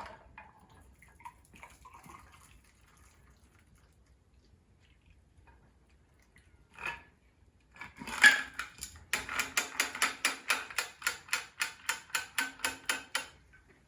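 Cocktail barware handled: a sharp clink of metal or glass, then a quick run of rhythmic clicks, about five a second, for around four seconds.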